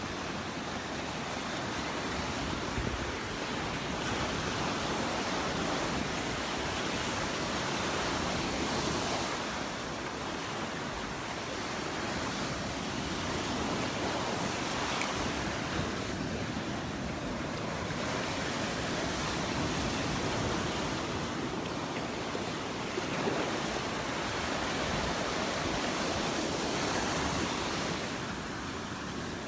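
Gulf of Mexico surf breaking and washing up on the beach, swelling and easing every few seconds, with some wind on the microphone.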